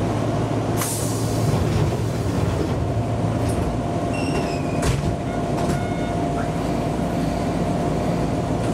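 Enshu Railway electric commuter train running on the line: a steady hum with a few knocks from the wheels on the track, and a brief high squeal about four seconds in.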